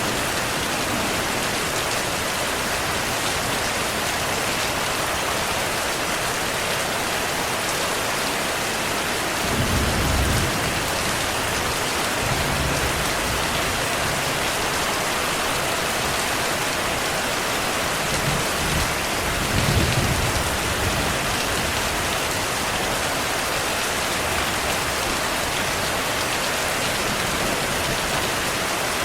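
Heavy rain falling steadily, with two brief low rumbles of distant thunder, about a third of the way in and again about two-thirds of the way in.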